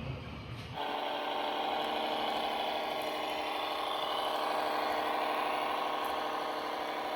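A scale RC model vehicle running with a steady, engine-like hum that starts abruptly about a second in.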